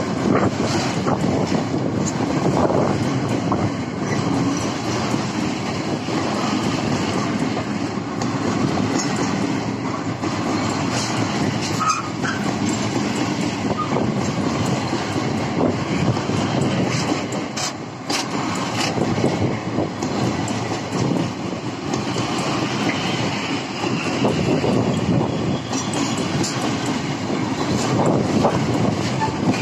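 Freight train of high-sided open wagons rolling steadily past, a continuous rumble of steel wheels on the rails with scattered clicks and knocks.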